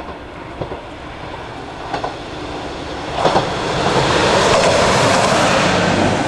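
A single-car train approaching and passing close by, its wheels clacking over the rail joints, growing louder into a steady rush as it goes past.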